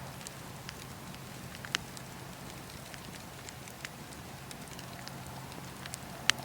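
Campfire crackling: a steady hiss and low rumble with scattered small pops and snaps. The sharpest snap comes near the end, and another a little under two seconds in.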